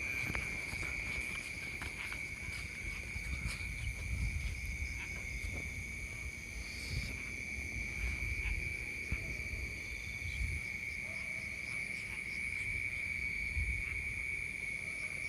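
Night insects, crickets or similar, chirring in a steady unbroken high-pitched drone, with a low rumble underneath.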